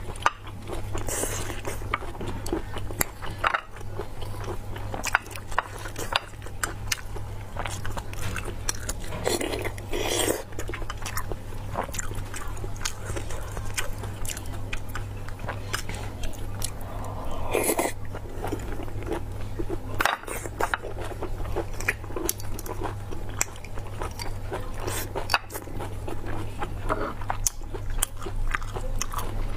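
Close-up wet chewing and biting of large sea-snail (conch) meat, with many sharp clicks and a few longer squelching smears, over a low steady hum.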